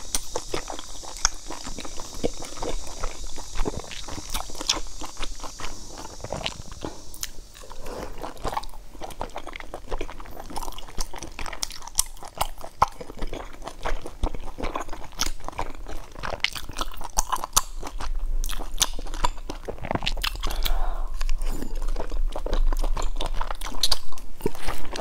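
Close-miked eating of spicy pork slices in chili sauce: chewing and biting with a rapid run of short mouth clicks and smacks.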